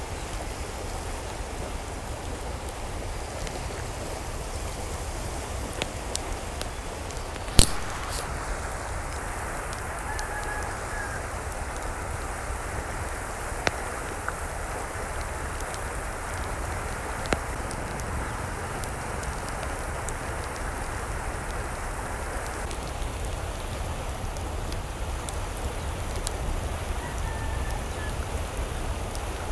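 Steady rain falling, an even hiss. A sharp click cuts through about seven and a half seconds in, and a couple of faint short calls sound in the distance, about ten seconds in and near the end.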